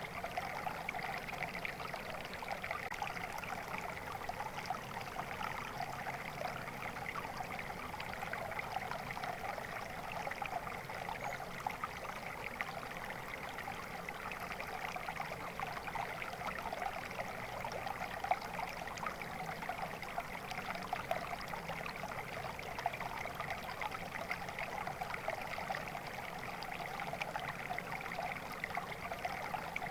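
Water flowing and burbling in a steady stream, a constant splashing rush with many small bubbling flickers.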